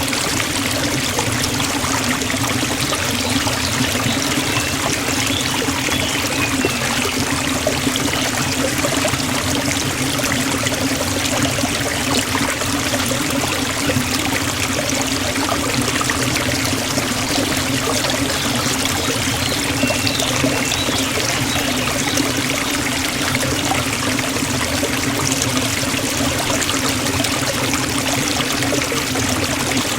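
Waterfall running steadily: an unbroken rush of falling water.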